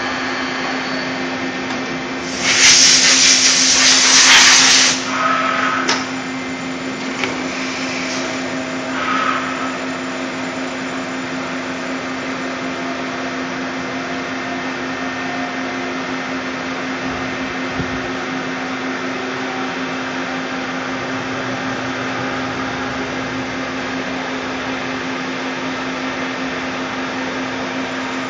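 Steady running hum of a Puma 350 CNC turning lathe, with a loud hiss lasting about two seconds beginning two or three seconds in and a shorter, fainter hiss a few seconds later.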